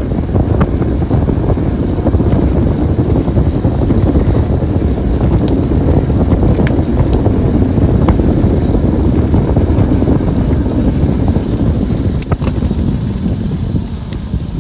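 Wind buffeting the microphone of a moving bicycle, a loud steady low rumble with a few faint clicks.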